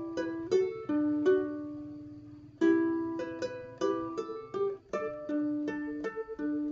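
Ukulele playing a plucked melody over chord notes; about a second in a note is left to ring and fade, then the playing picks up again with a quick run of notes.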